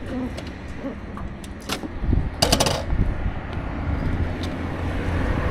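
Ducati Scrambler Sixty2's air-cooled L-twin engine idling with a steady low rumble. Scattered clicks and a short rattle of clicks come about two and a half seconds in.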